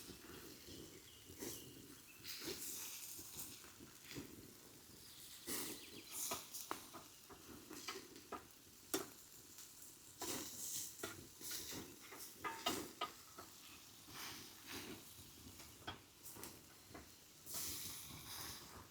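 Food sizzling in a pan while a utensil stirs and scrapes, making irregular clicks and scrapes over a faint hiss.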